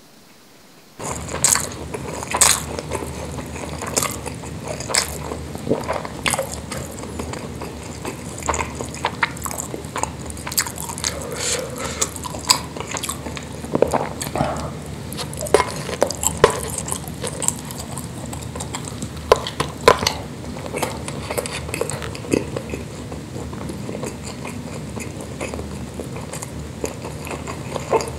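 Close-miked wet chewing and mouth smacks of a person eating rice and spicy meatballs, with many sharp clicks, beginning about a second in.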